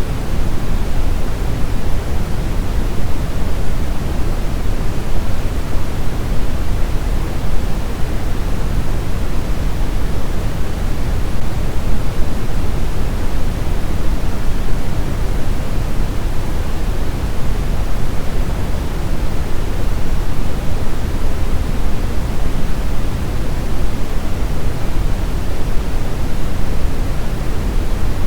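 Continuous brown noise: a steady, even rush heaviest in the deep lows and falling away toward the highs, with no changes or events.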